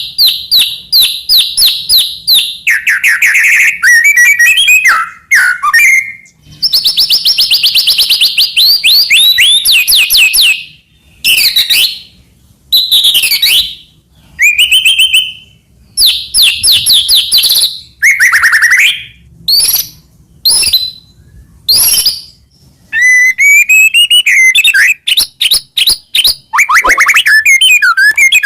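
White-rumped shama (murai batu) singing loudly and continuously: rapid trills, fast repeated notes and sweeping whistled phrases with short pauses between them, the full, varied song used as a master recording for training other songbirds.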